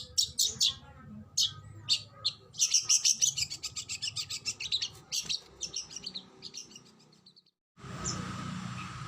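Oriental magpie-robin (kacer) singing rapid, sharp high notes in quick repeated bursts, the fast 'shooting' (tembakan) phrases. Near the end the song breaks off briefly, then fainter rapid notes resume over a steady background hiss.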